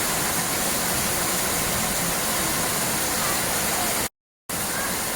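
Steady rushing noise of running water, broken by a sudden silent gap of about half a second a little after four seconds in.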